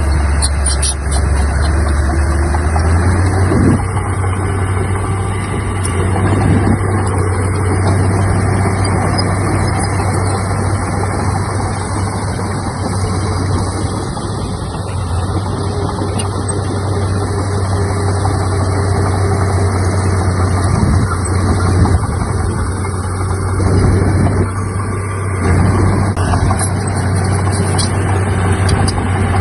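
Diesel engine of a Komatsu D31P bulldozer running steadily with a deep hum, with a few brief louder knocks now and then.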